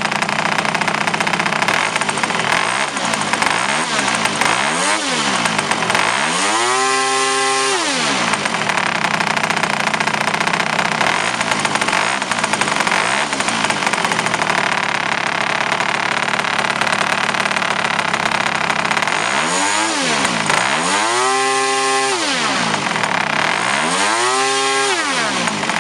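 MOKI-22 petrol engine of an F3A aerobatic radio-controlled model airplane running at speed, its pitch repeatedly sweeping up and down as it maneuvers, with several sweeps in the first third and three strong ones near the end.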